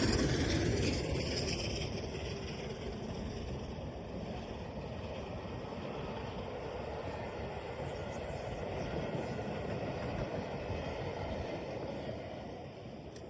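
Steam-hauled train passing, loudest at the start and dying away over the first couple of seconds, then a steady fainter rumble of the train rolling on.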